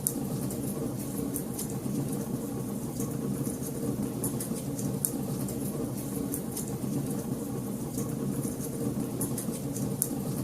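Wood fire crackling in a fireplace: a steady low rush from the flames with frequent small, irregular snaps and pops.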